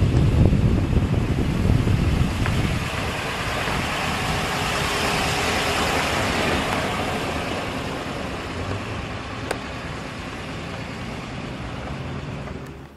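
A 1963 Chevrolet Corvette with its 327 V8 runs as the car drives by, the sound slowly fading as it pulls away. It cuts off just before the end.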